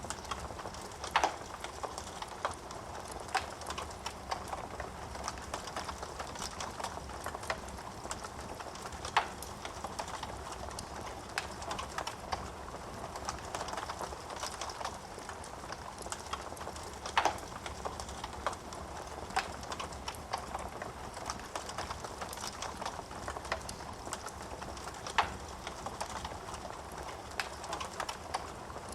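Wood fire burning in a fireplace: a steady hiss of flames with irregular crackling and a few louder pops.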